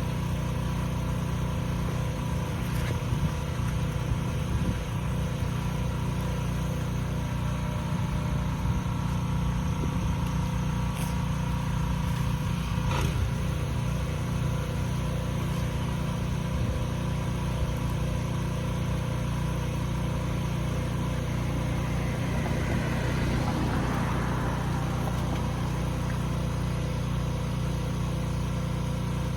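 Engine running steadily at a constant speed, with a short rise of hissing noise a little past the middle.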